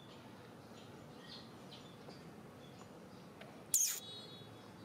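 Small birds chirping faintly, then one loud, short, high call that falls in pitch about three-quarters of the way through.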